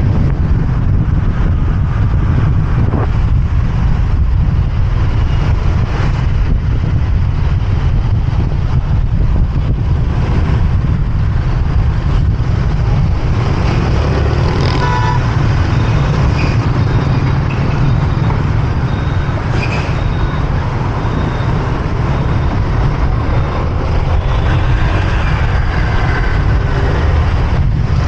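Motorbike riding through city traffic: a loud, steady low rumble of wind on the microphone and engine, with other traffic around it and a brief higher-pitched tone, like a horn, about halfway through.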